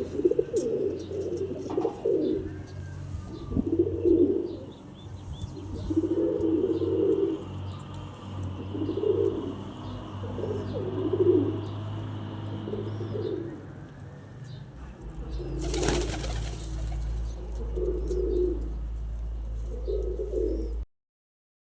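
Domestic pigeons in a loft cooing over and over in low, throaty phrases, with faint high chirps. About two-thirds of the way through there is a brief rustling burst, likely wing flaps.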